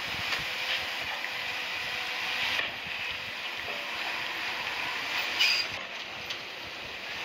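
Heavy earthmoving machinery working, a steady mechanical clatter with a few metallic clanks, the loudest about five and a half seconds in.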